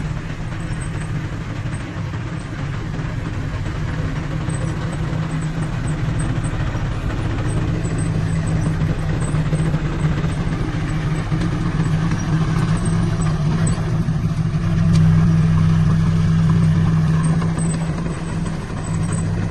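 Heavy diesel engine running steadily under load, with a low drone that swells louder about three quarters of the way through and then eases off slightly.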